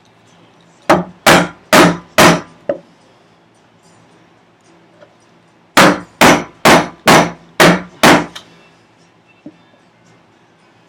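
Chisel being struck repeatedly, chopping out a housing dado in a wooden vise chop: four sharp blows about a second in, then after a pause a run of six more, each ringing briefly.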